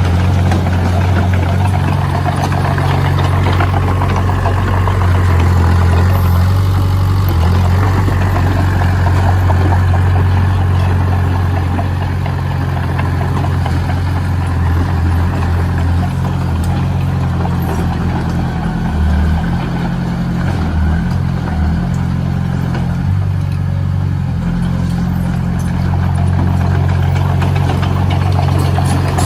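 Engine of a heavy earthmoving machine running steadily at a low, even pitch, wavering briefly about two-thirds of the way through.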